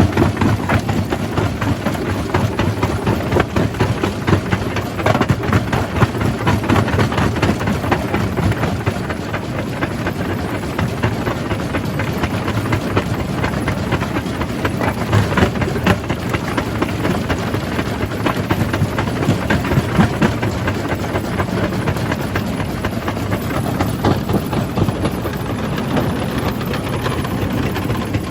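Jaw crusher running, its steady heavy drone mixed with a dense, irregular clatter and cracking of rock being crushed between the jaws.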